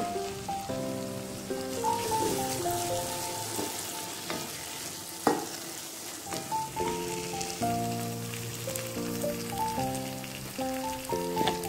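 Cowpeas and tomatoes frying in a pot, sizzling as a wooden spatula stirs them, with one sharp knock about five seconds in. Background music with a melody of held notes plays over the sizzling.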